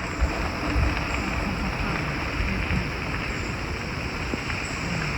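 Steady rushing of a river's flowing water, with irregular low wind buffeting on the microphone.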